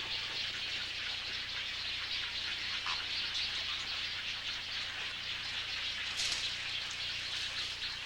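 Dense, steady chatter of many birds calling at once in a large waterbird nesting colony of wood storks, herons and egrets, with one brief louder call about six seconds in.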